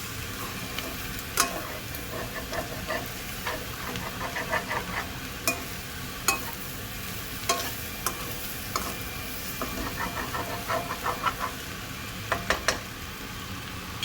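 Egg and chopped vegetables sizzling steadily in a pan on high flame while being stirred, with scattered sharp knocks and scrapes of the stirring utensil against the pan, a quick cluster of them near the end.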